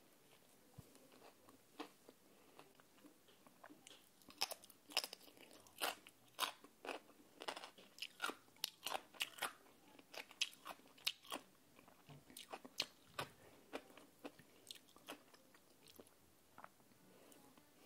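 Close-miked crunching and chewing of crisp food: a fried cheese corn dog's crust and yellow pickled radish being bitten and chewed. Sharp crunches come thick and fast from about four seconds in, then thin out.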